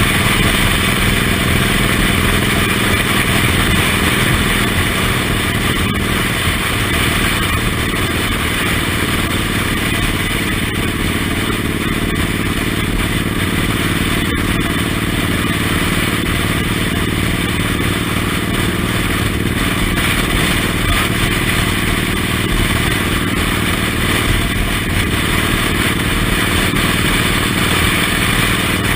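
Suzuki Intruder M1800R's big V-twin engine running steadily under way, heard from the pillion seat.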